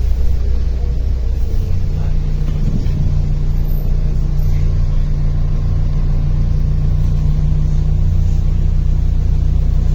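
MAZ-105 city bus heard from inside the cabin while under way: a steady low engine and drivetrain drone. About two seconds in, the engine note steps up to a higher steady hum.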